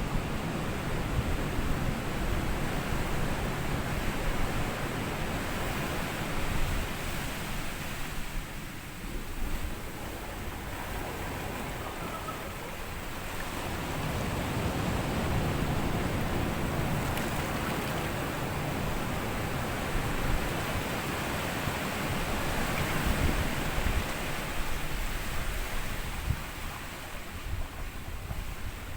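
Waves breaking and washing over a sandy shore, a continuous surging wash that swells and eases, with a quieter lull about a third of the way through.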